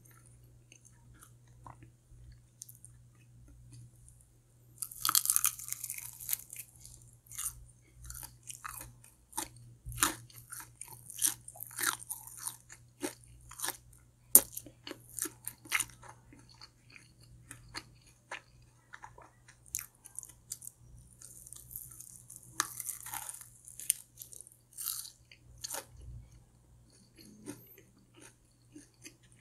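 Close-miked eating of crispy fried food: loud crunching bites, one about five seconds in and another a little past twenty seconds, with steady chewing clicks in between.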